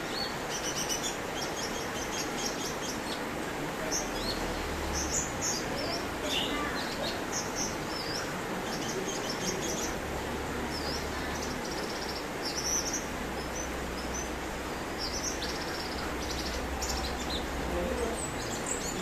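A songbird singing a rapid, varied stream of short, high chirps and whistles over a steady background hiss.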